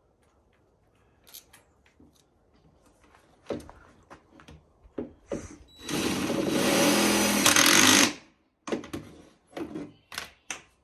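Power drill running for about two seconds as it drives a self-tapping screw, surrounded by scattered knocks and clicks of handling.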